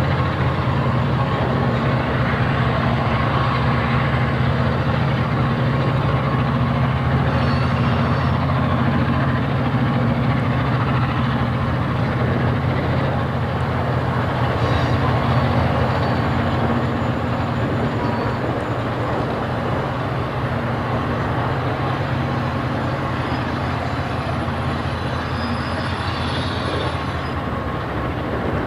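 EMD diesel-electric locomotives of the GM and ALF classes running with a steady, heavy engine drone, easing slightly in level about two-thirds of the way through.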